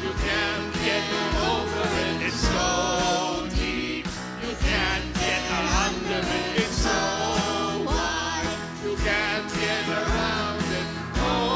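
Upbeat gospel song: voices singing over instrumental backing with a steady beat.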